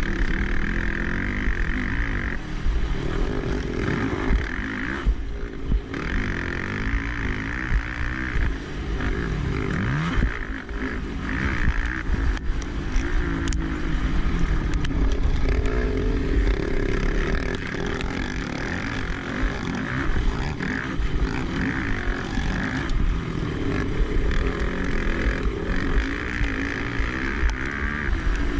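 Motocross racing quad's engine revving up and down continuously as it is ridden hard, over a low rumble.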